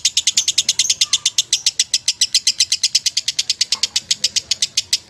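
Lovebird singing a long, unbroken chattering trill of rapid, sharp notes, about ten a second: the continuous 'ngekek' song prized in Indonesian lovebird contests.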